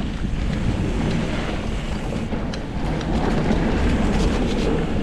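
Wind buffeting the microphone as a mountain bike rolls down a flowy dirt trail, with tyre noise and a few light clicks and rattles from the bike.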